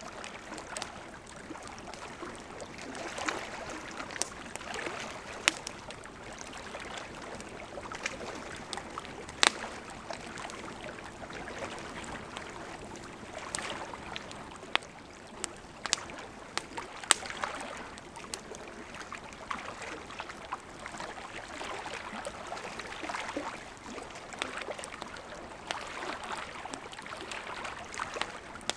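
Wood campfire burning: a steady hiss of flame with irregular sharp pops and crackles of burning wood, the loudest about ten seconds in and again near the middle.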